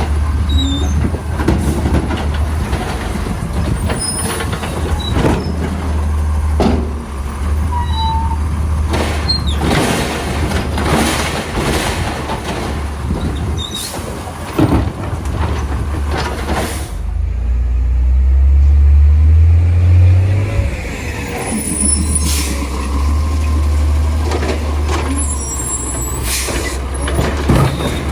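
Diesel engine of an Autocar Labrie side-load garbage truck running, with repeated short hisses and clanks from air brakes and equipment. About two-thirds of the way through, the engine revs up, rising in pitch for a few seconds, then settles back.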